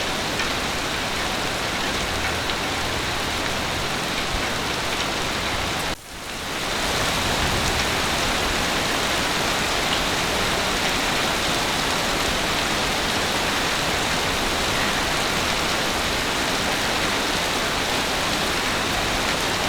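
Heavy rain falling in a steady, even hiss. About six seconds in it briefly drops out, then swells back up within a second.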